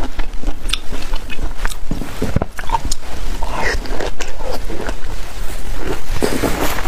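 Close-miked biting and chewing of peeled orange pieces: a steady run of short, crisp crunches and mouth clicks.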